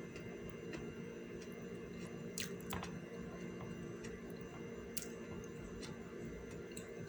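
A person chewing food close to the microphone, with wet, squishy mouth sounds, over a steady low hum. A few sharp clicks come about two and a half seconds in and again about five seconds in.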